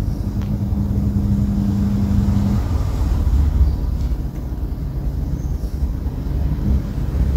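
Steady low rumble, with a low hum for the first two and a half seconds.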